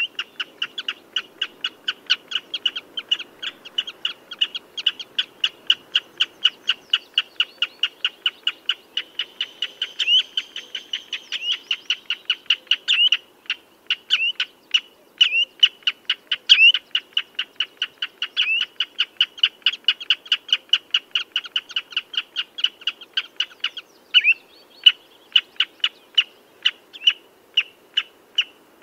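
Common redshank calling: a long, rapid series of short, piping notes at about four or five a second, some notes hooked upward, with brief breaks twice.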